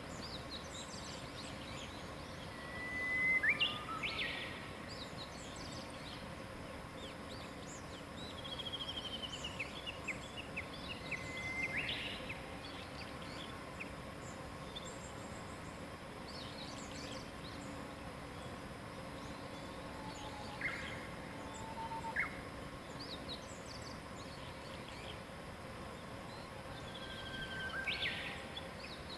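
Wild songbirds singing in separate phrases every few seconds: held whistled notes and quick trills and chirps. Under them runs a steady outdoor hiss with a faint constant hum.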